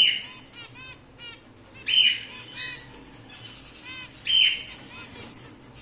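Cockatiels calling: a run of short, repeated chirps, broken twice by a louder, harsher call, about two seconds in and again past four seconds.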